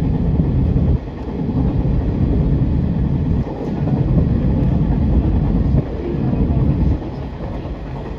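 Electric train running along the track, heard from inside the driver's cab: a steady low rumble of wheels and running gear. The level drops sharply about a second in and again around three and a half, six and seven seconds, building back up after each dip.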